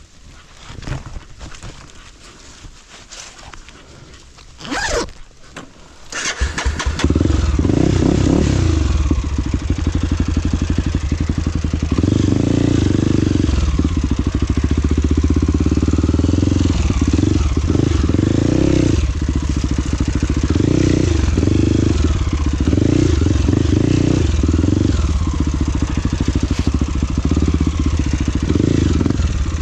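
Off-road trail motorcycle engine starting up about six seconds in, then running with the revs rising and falling.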